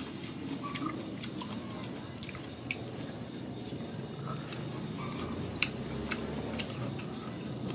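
A person chewing and crunching mango slices, with scattered sharp clicks and taps, the loudest about five and a half seconds in. A faint steady high whine sits underneath.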